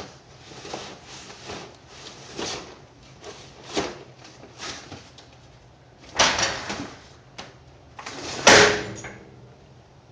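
Cardboard handled at a baler: a run of short rustling and scraping sounds, then two loud bangs, the second the loudest and leaving a short metallic ring.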